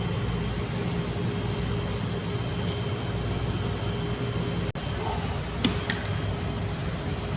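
Steady background hum and noise, with a sudden brief cut-out about four and a half seconds in and a short click just after.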